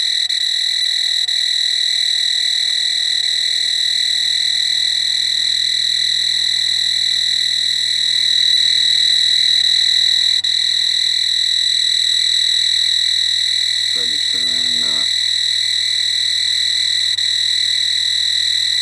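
Power inverter under load from a coffee pot, sounding a steady high-pitched buzzer tone over a low electrical hum, with the batteries sagging to about 11.3–12 volts. The 'little buzzer' is one that quits once the second battery bank is switched in, typical of a low-battery-voltage warning.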